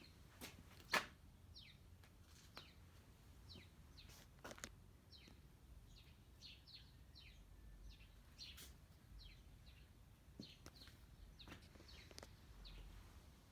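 Faint, short, high chirps from small birds, each sweeping downward and repeated irregularly, with a few sharp clicks, the loudest about a second in.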